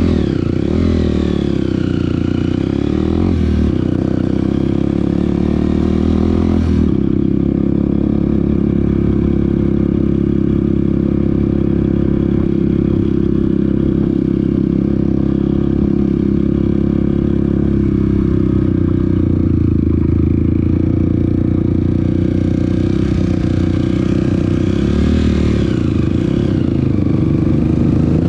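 Off-road vehicle engine running steadily up close while riding a trail, with its revs rising and falling a few times near the start and again near the end, over a constant rattle.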